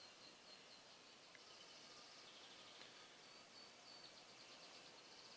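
Near silence with faint, high-pitched bird chirps and short trills repeating now and then.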